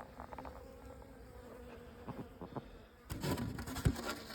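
Honeybees buzzing steadily around the hive. About three seconds in, a run of sharp knocks and rattles starts over the buzzing.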